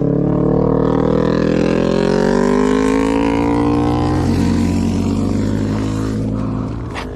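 Motorcycle engine pulling up through the revs for about three seconds, then dropping about four seconds in and running steadier at lower revs. A short click comes near the end.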